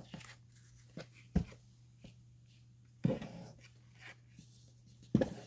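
Paper and fabric craft materials being handled on a work table: a few light knocks and rustles, the sharpest about a second and a half in and near the end, over a steady low hum.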